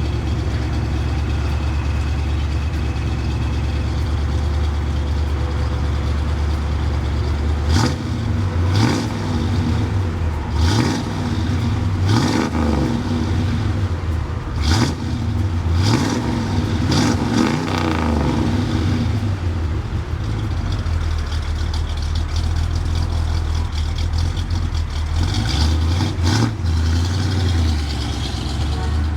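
1967 Impala SS's 396 big-block V8 idling steadily, with a run of quick throttle revs between about eight and eighteen seconds in.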